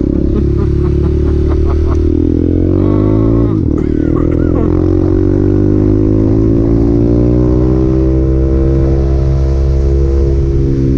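Honda Grom's 125 cc single-cylinder engine running under way, its pitch climbing over a few seconds with a brief drop about a third of the way in, as at a gear change, then holding steady.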